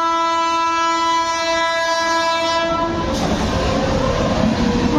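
Electric locomotive of an overtaking train sounding its horn in one long, steady blast, which cuts off about three seconds in. The loud rumble and wheel clatter of the train passing close by follow.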